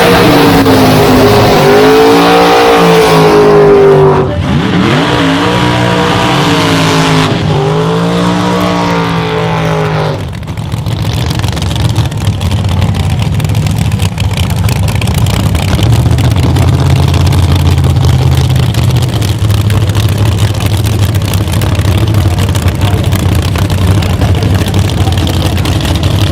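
Drag-racing rat rod engine run hard: it climbs in pitch three times in the first ten seconds, each climb cut off sharply, then drops to a low, rough, lopey rumble.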